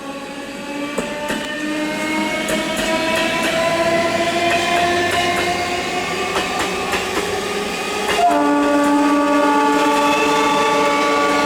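An Indian Railways EMU local train approaching, its electric whine slowly rising in pitch and getting louder, with wheels clicking over the rail joints. About eight seconds in the train sounds its horn, a loud steady blast that carries on to the end.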